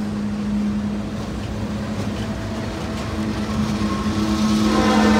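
CSX freight train's diesel locomotives passing close by: a steady engine hum over rumbling wheel and rail noise, with more tones building near the end as the second locomotive goes by.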